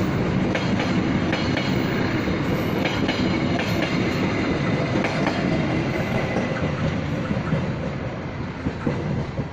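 Passenger train carriages rolling past, wheels rumbling and clattering over the rail joints, the sound fading near the end as the train moves away.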